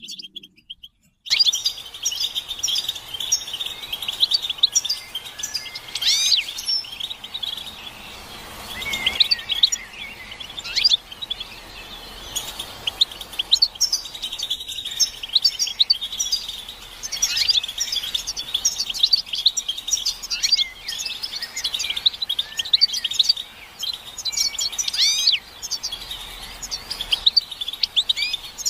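European goldfinches twittering together: a dense, continuous stream of quick chirps and trills. These are the excited group calls of readiness and courtship used to stir male goldfinches into song. The chorus starts about a second in, after a brief silence.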